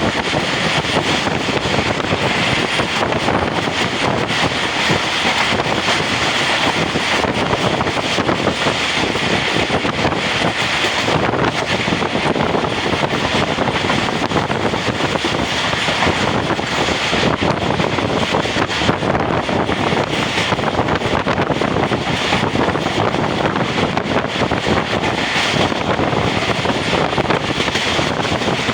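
Passenger train running at speed: a steady rush of wheel and wind noise.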